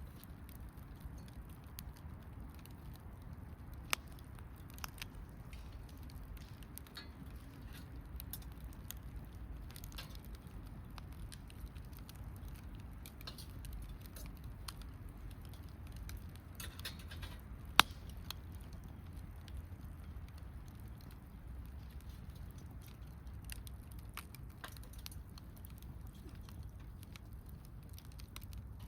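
Wood campfire crackling, with scattered faint ticks over a low steady rumble. There is one sharp pop about four seconds in and a louder, sharper pop a little past the middle.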